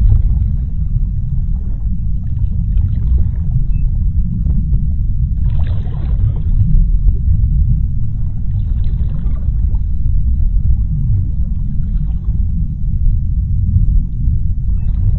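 Underwater ocean ambience: a steady deep rumble, with softer swells of hissing water movement rising and fading every few seconds, the largest about six seconds in.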